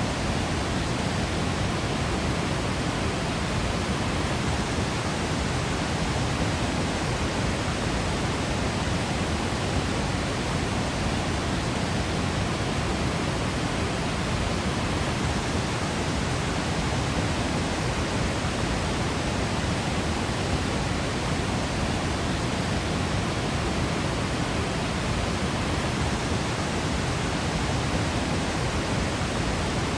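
Waterfall water falling and crashing in a steady, even rush.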